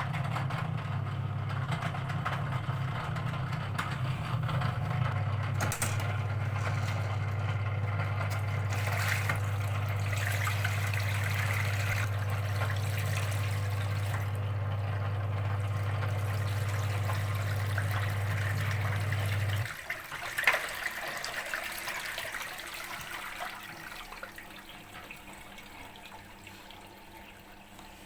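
Washing machine drain pump motor humming steadily with water noise over it, then cutting off abruptly about two-thirds of the way through. A click and fading water trickle follow. The pump runs but does not drain because its impeller has come out.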